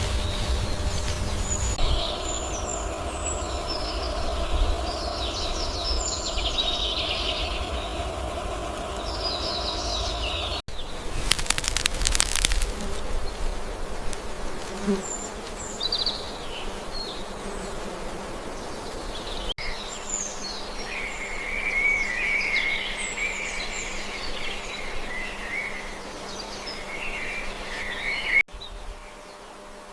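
Forest ambience: small birds chirping, with a run of trilling song in the latter half, over a steady insect buzz. A low rumble sits under the first third, and a brief rush of noise follows it. The sound changes abruptly three times, as takes are spliced together.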